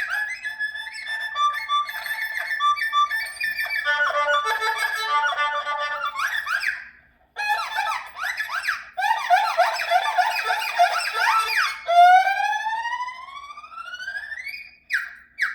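Erhu solo playing fast trills and quick sliding notes that imitate birdsong. There is a short break about seven seconds in, and near the end a series of long rising glissandi.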